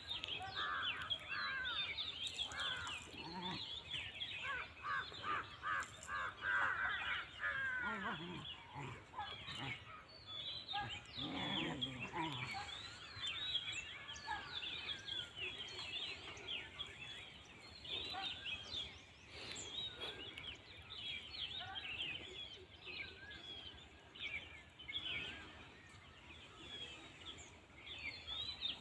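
A chorus of many birds chirping and calling throughout, with a quick run of repeated calls about six seconds in. Some lower, sweeping animal sounds come around eight to thirteen seconds in.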